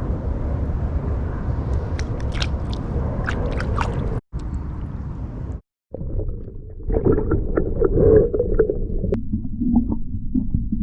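Gusty wind rumbling on the microphone with water sloshing and gurgling against a canoe hull, and scattered small clicks and knocks of handling. The sound cuts out abruptly twice, and after the second cut the water gurgling and knocking come through more strongly.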